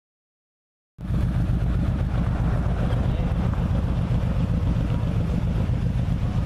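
Silence for about a second, then the steady engine and wind noise of a Can-Am Spyder three-wheel motorcycle on the move cuts in suddenly and runs on evenly.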